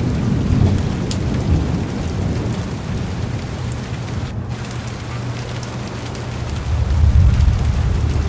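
Heavy rain pattering on a car's windows and roof, with a low rolling rumble of thunder underneath that swells about seven seconds in.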